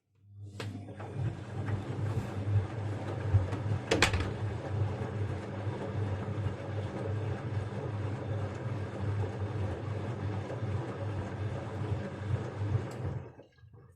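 Bosch Avantixx 6 front-loading washing machine running its quick programme: a steady low motor hum with a pulsing drum rumble. There is a sharp knock about four seconds in.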